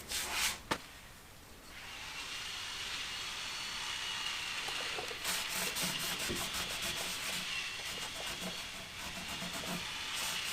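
Sanding a shellacked wooden workbench top to knock down rough spots before staining: a steady scratchy hiss that starts about two seconds in, after a couple of light knocks.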